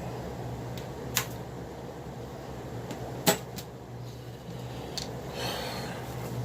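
Plastic DVD cases being handled: a few sharp clicks, the loudest about three seconds in, and a brief rustle near the end, over a low steady hum.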